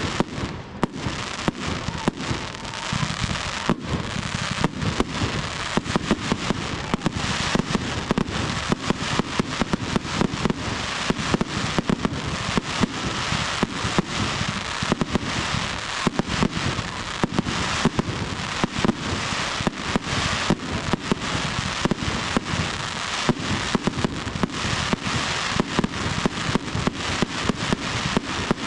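Fireworks display going off: a dense, unbroken run of sharp bangs, several a second, over continuous crackling.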